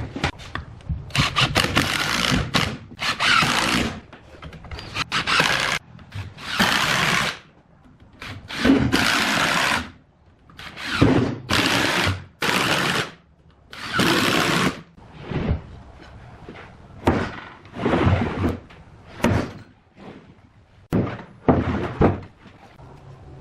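Woodworking tool work: a series of noisy strokes, each about half a second to a second long, with short pauses between them.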